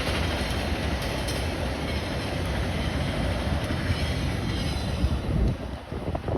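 VIA Rail passenger train led by locomotive 914 passing close by, a steady rumble of wheels on rail that drops off near the end.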